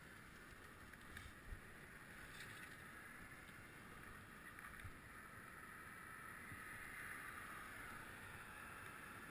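Faint, steady rolling and wind noise from riding a bicycle, with a few small knocks and a slightly stronger hiss toward the end.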